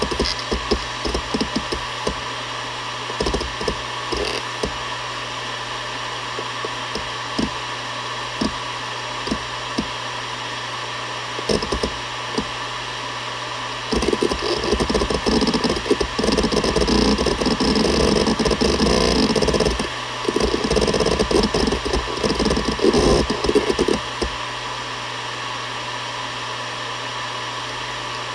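Seagate Barracuda ES.2 ST31000340NS 7200 rpm hard drive spinning with a steady hum, its heads seeking with scattered clicks at first. From about halfway through it breaks into a dense run of rapid seek chatter, pausing briefly once, and settles back to plain spinning a few seconds before the end.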